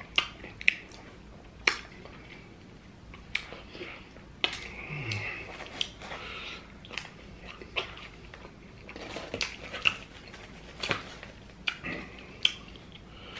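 Close-miked mouth sounds of a person eating chicken wings and pizza: wet chewing and sharp lip smacks, coming irregularly about once a second. There is a short low 'mm' about five seconds in.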